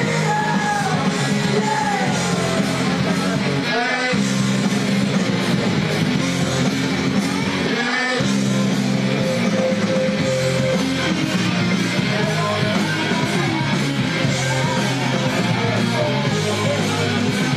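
Rock music with singing and electric guitar, with brief breaks in the band about four and eight seconds in.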